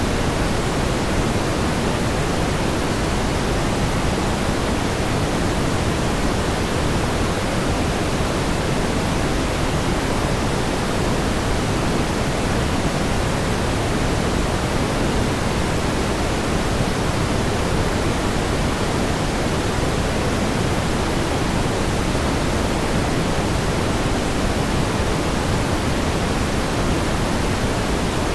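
Steady pink noise: an even, unchanging hiss, stronger in the low end than the top.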